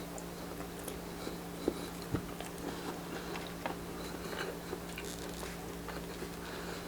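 A person chewing and biting grilled street-food barbecue close to the microphone: a string of short, irregular mouth clicks and smacks. A steady low hum runs underneath.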